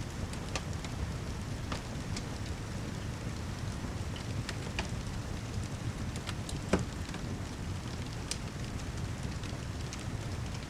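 Steady rain mixed with a crackling fireplace: a constant low rumbling hiss under scattered sharp pops, the loudest pop about two-thirds of the way through.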